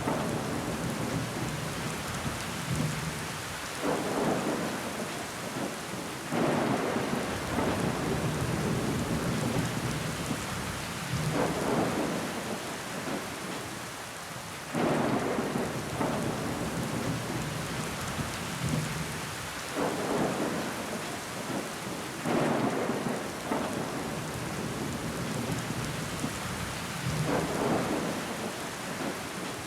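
Rain pattering steadily against a window pane, with water running down the glass. Heavier surges of rain swell up every few seconds.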